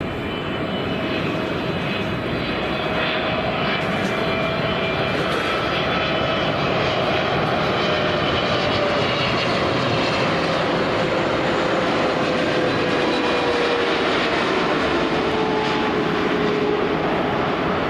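Boeing 777's twin GE90 turbofans on landing approach: a steady, loud jet roar with a whine that slowly falls in pitch as the airliner passes.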